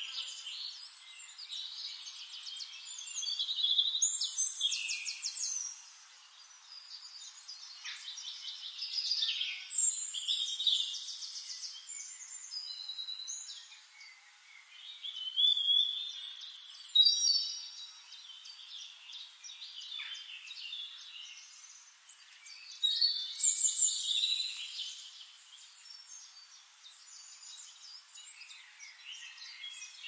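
Songbirds singing in a forest: overlapping chirps and fast high trills, with louder bursts of song about 4, 10, 16 and 23 seconds in.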